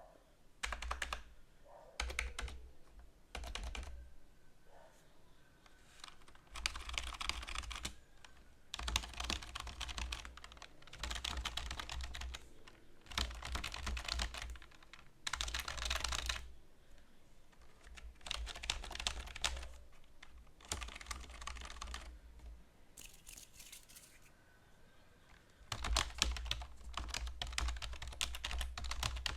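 Typing on a computer keyboard: fast runs of key clicks lasting a second or two each, broken by short pauses.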